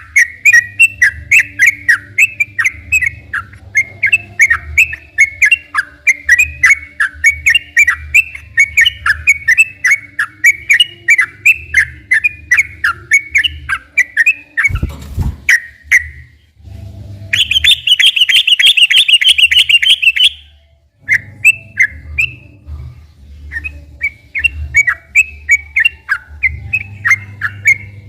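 Yellow-vented bulbul singing a long, fast run of bubbly chirping notes. About halfway through the song breaks off briefly with a dull thump, then comes a rapid buzzy trill lasting about three seconds, and the chirping starts again.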